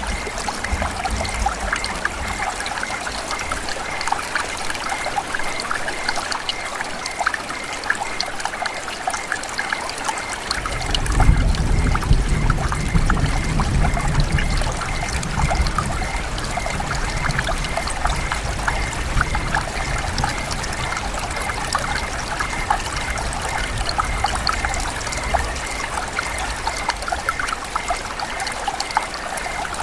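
Steady rain falling, dense hiss with many small drops ticking. A low rumble comes in about eleven seconds in and stays underneath.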